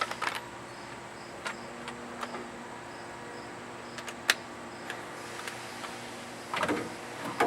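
Scattered light metal clicks and taps of a socket tool working the primary clutch bolt as it is tightened, with one sharper click about four seconds in and a short clatter near the end.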